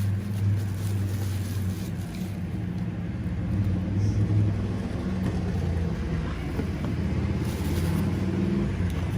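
A steady low mechanical hum, like a running motor or engine.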